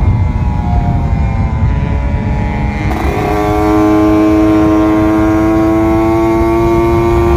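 Kawasaki Ninja RR 150's two-stroke single-cylinder engine running under way, heard from the bike with low wind rumble. About three seconds in there is a gear change, after which the engine holds a strong steady note that climbs slowly.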